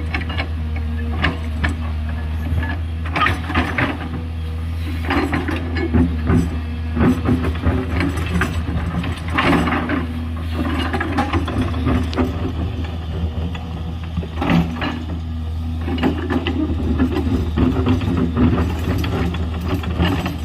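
Heavy earthmoving machine's diesel engine running steadily under load, with irregular metallic clanks and scraping as it digs and pushes rock and soil.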